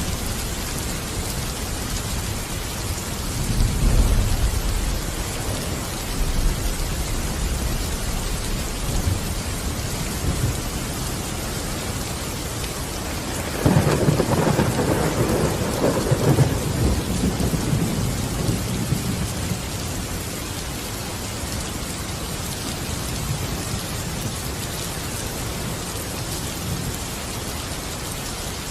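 Steady rain falling, with thunder: a low rumble about four seconds in, then a sudden, louder thunderclap about halfway through that rolls on for several seconds before fading back into the rain.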